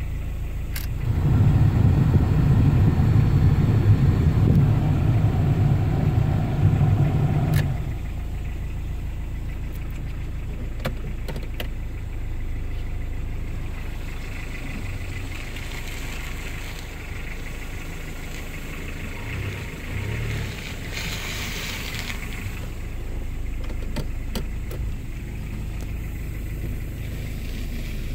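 A 1986 Toyota Camry 2.0 turbo diesel's engine running with a low rumble, louder for the first several seconds and dropping to a steadier, quieter hum about eight seconds in.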